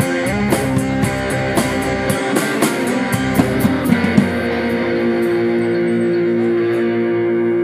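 Live rock band playing, with guitar over drums and cymbals. About four seconds in the drums stop and a held guitar chord rings on.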